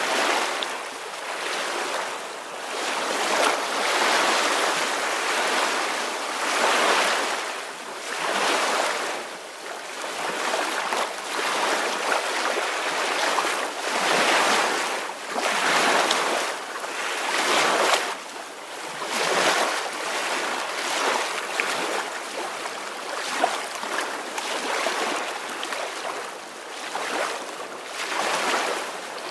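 Ocean waves washing ashore in soft, repeated swells, rising and falling every two to three seconds.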